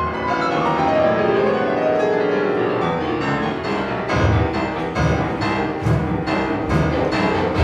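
Piano and string orchestra playing classical music. Falling melodic lines give way about three seconds in to a run of repeated, accented chords with heavy bass notes.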